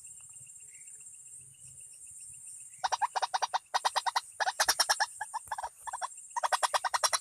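White-breasted waterhen calls: a rapid run of harsh, croaking notes at about nine a second, starting about three seconds in, breaking off briefly and picking up again near the end, over a steady high insect buzz.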